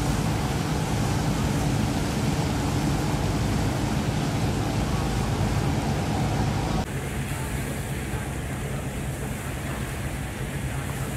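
A steady engine drone under wind and wave noise; the sound drops and changes abruptly about seven seconds in.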